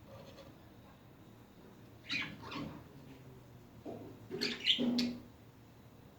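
Pet budgerigars chattering in short bursts of chirps, one about two seconds in and a louder cluster between four and five seconds.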